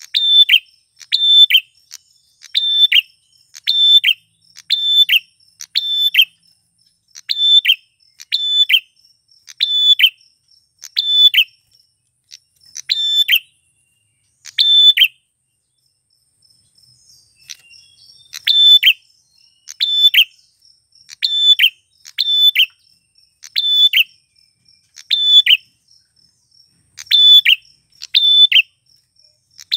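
Male prenjak klawu (a prinia) calling over and over: loud, short, sharp high notes about one every three-quarters of a second, with a pause of a few seconds midway before the calls resume.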